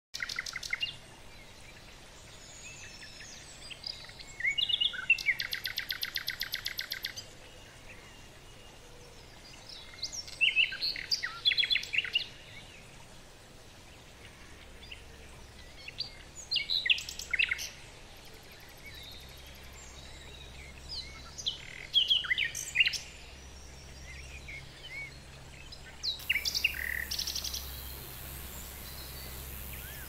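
Birds calling in short bursts of chirps every few seconds, with a rapid trill of evenly spaced notes about five seconds in.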